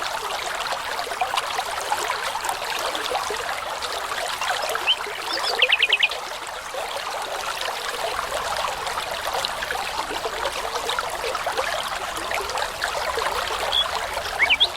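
A brook babbling steadily, with a bird giving a quick run of about six loud repeated notes about five seconds in, and starting another run of repeated notes near the end.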